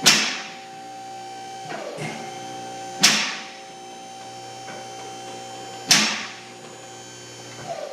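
Three sharp metallic strikes about three seconds apart, each ringing out briefly, with a fainter knock between the first two: a hammer striking metal on the pickup during the teardown. A steady hum runs underneath.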